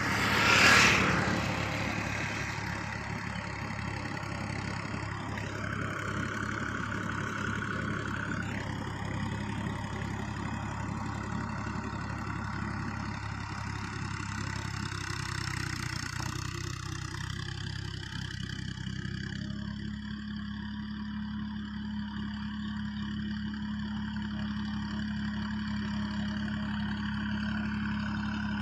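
Universal 533 tractor's engine running steadily while puddling a flooded paddy field. A brief loud rush of noise comes about a second in, and from about twenty seconds in the engine settles into a steadier, more even note.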